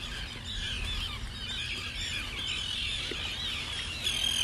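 A flock of gulls calling without pause, many short high calls overlapping one another.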